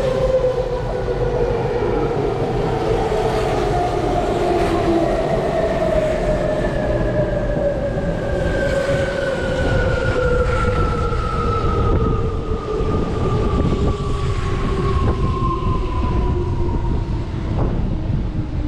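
Electric commuter train arriving at a station platform: the traction motors' inverter whine falls steadily in pitch as the train brakes to a stop, over rumbling and clicking wheels on the rails.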